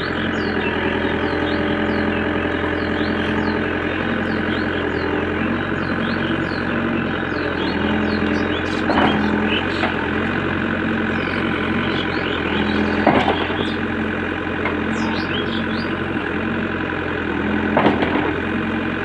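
Diesel engine of a JCB 3DX backhoe loader running steadily at low revs, with a few sharp knocks spread through, at about nine, thirteen and eighteen seconds.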